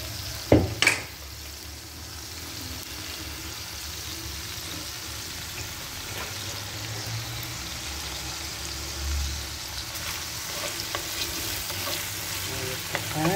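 Chopped spring onions frying in olive oil in an earthenware tagine, a steady sizzling hiss. Two sharp knocks about a second in, and a wooden spoon stirring and tapping in the pan near the end.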